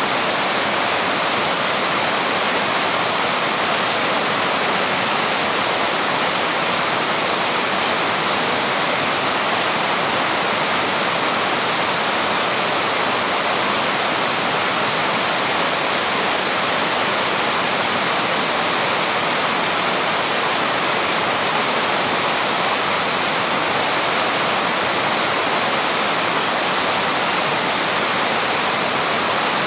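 Waterfall pouring with a steady, unbroken rush of falling water.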